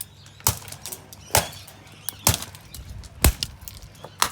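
Plastic housing and grille of a Homewell KYT-30C box fan being smashed: five sharp cracking blows, about one a second.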